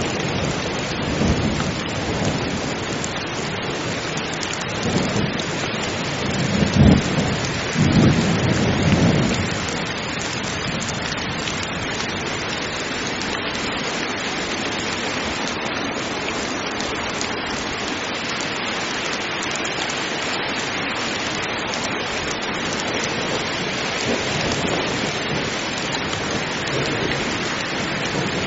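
Heavy rain falling steadily. Thunder rolls through the first ten seconds or so, with a sharper clap about seven seconds in, then only the rain goes on.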